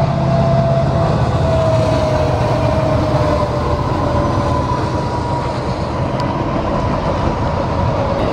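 A train passing close at low speed: a steady heavy rumble of the locomotive and rolling cars, with a thin tone that slowly falls in pitch.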